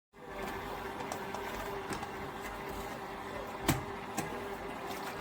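Cordless wet-dry vacuum mop running with a steady mechanical hum, and a sharp click about three and a half seconds in.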